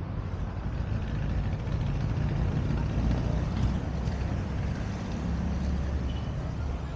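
Street traffic passing: a low engine rumble that swells to its loudest around the middle and then eases off.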